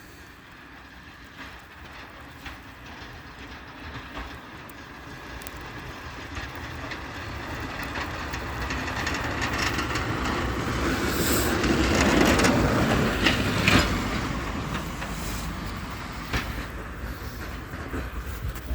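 A heavy vehicle passing by, building up to its loudest about twelve seconds in and then fading away, with a few short clicks at its closest.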